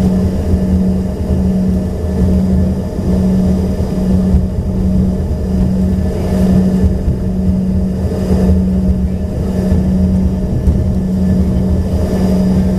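Steady droning hum inside the cabin of an Embraer ERJ-145XR regional jet on the ground, pulsing about twice a second over a low rumble.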